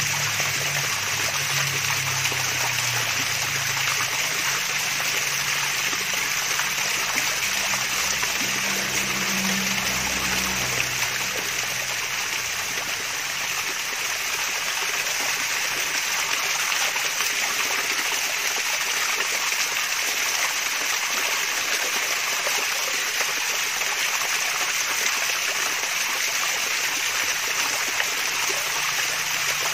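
Water from a small waterfall splashing and trickling steadily, with an even rushing hiss. A low hum sits underneath for about the first ten seconds, then fades.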